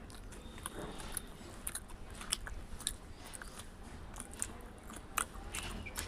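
Close-up eating sounds: chewing with scattered sharp, wet mouth clicks and smacks, several a second.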